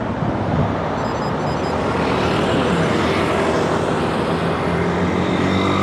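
Busy highway traffic: a steady din of car, bus and truck engines and tyres close by. A heavy vehicle's low engine hum grows clearer near the end.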